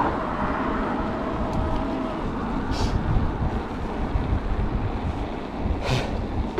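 Wind buffeting the microphone of a moving mountain bike, a steady rushing noise with a faint steady tone for about the first two seconds and two brief hisses.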